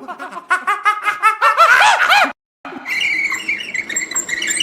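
Monkey calling in rapid, repeated high screeching and chattering calls, which stop abruptly a little over two seconds in; after a brief silence comes a noisier stretch with steady high tones.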